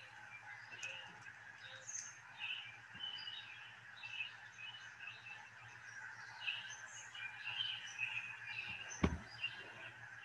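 Birds chirping again and again over a faint outdoor hiss and a low steady hum, with a single sharp click about nine seconds in.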